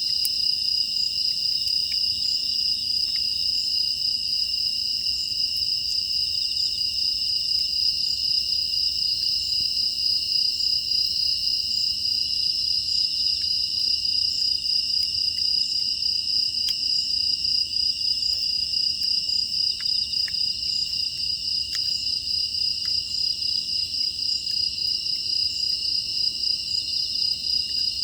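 Crickets and other grass insects chirping in a steady, dense, high-pitched chorus, with a few faint clicks scattered through it.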